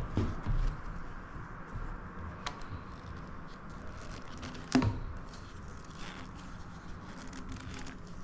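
Handling sounds of a plastic waste pipe coupler being worked onto a saw's gaffer-taped dust outlet: scattered small clicks and rustles, with one sharp knock a little before halfway through.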